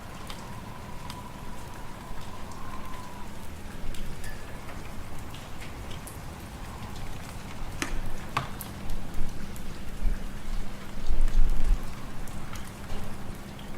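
Fireplace fire crackling, with scattered sharp pops over a steady hiss, under a low wind-like rumble that swells about eleven seconds in.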